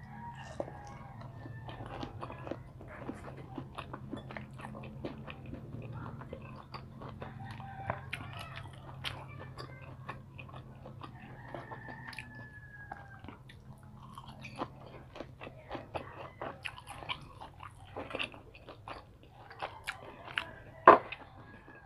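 Close-up chewing and biting of fried street food (fish balls, kikiam, crispy fried tofu), with many small wet mouth clicks and crunches. A bamboo skewer clicks against the bowl, with one sharp click near the end. A low steady hum runs underneath.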